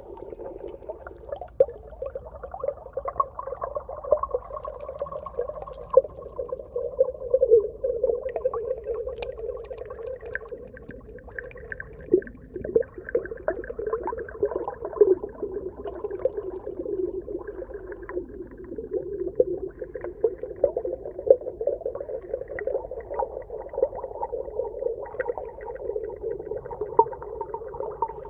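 Underwater ambience: a steady muffled hum with dense, irregular crackling clicks throughout.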